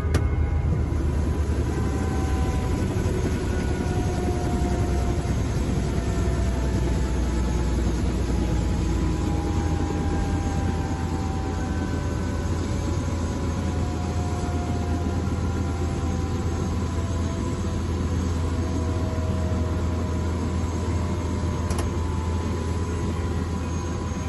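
Steady drone of an Ecureuil helicopter's rotor and turboshaft engine in flight, with a deep low throb and a faint whine above it.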